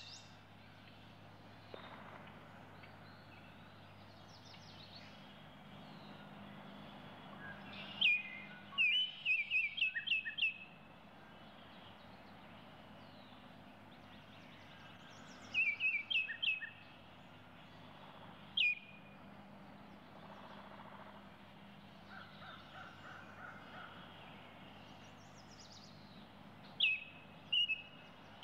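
A small bird chirping in short bursts of quick high notes, several times, over a faint steady background hum.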